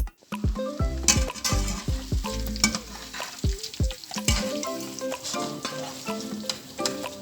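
Food frying and sizzling in a pan, a steady hiss, with background music with a beat playing over it.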